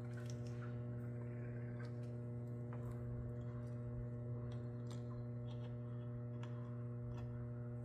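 Microwave oven transformers humming steadily under power, with scattered irregular crackles and ticks from the high-voltage discharge burning a Lichtenberg figure.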